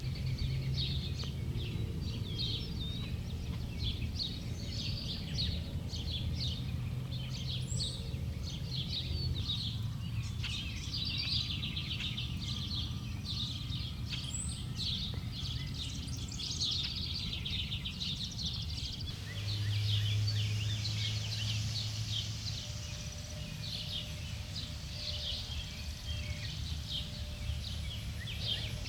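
Many songbirds chirping and singing over a steady low hum, which grows louder for a few seconds about twenty seconds in.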